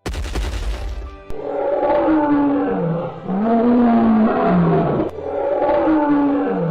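Cartoon triceratops sound effects: a low rumble in the first second, then three long roaring calls one after another, each sliding in pitch.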